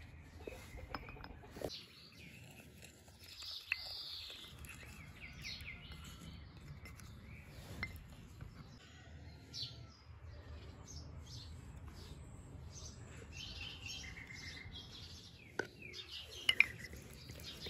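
Small birds chirping over a steady low background noise, with a few sharp clicks or knocks, the loudest near the end.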